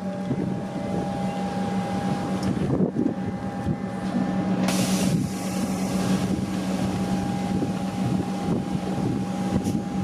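Comeng electric suburban train at the platform, giving a steady electrical hum over a low rumble, with a short hiss about five seconds in.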